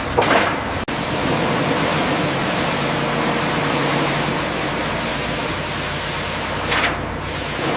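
Pressure-washer water jet spraying: a steady, loud hiss starting abruptly about a second in, with a faint steady hum beneath.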